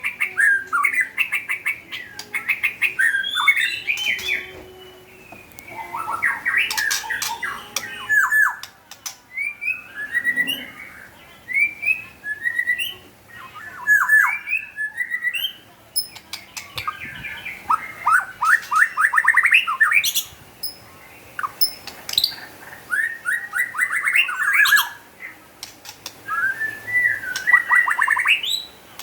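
White-rumped shama (murai batu) in full song: phrases of rapid whistled notes, many sweeping quickly downward, each phrase a second or two long and repeated after short pauses.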